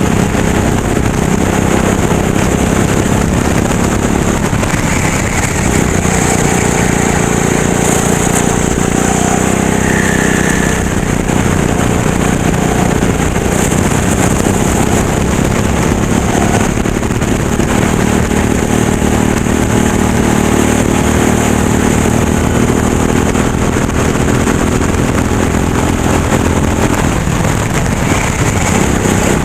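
Racing kart engine running hard without a break, its pitch dipping briefly a couple of times, about five seconds in and near the end, then climbing back as the kart accelerates.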